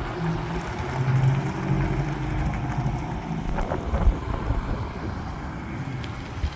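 A heavy truck's diesel engine running as the lorry drives past, its low note strongest in the first couple of seconds, with a single knock about four seconds in and wind on the microphone.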